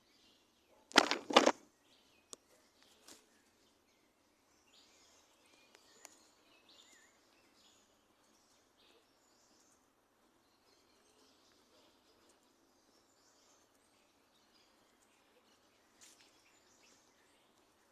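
Two loud knocks in quick succession about a second in, then small birds chirping faintly on and off.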